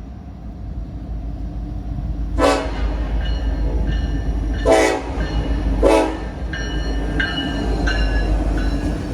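Freight train approaching with a rumble that builds. The locomotive horn sounds three short blasts, about two and a half, four and a half and six seconds in, and steady high tones ring over the rumble after the first blast.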